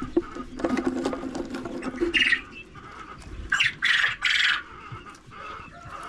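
Chickens squawking in several short, harsh bursts, three in quick succession past the middle, over a lower drawn-out call in the first two seconds.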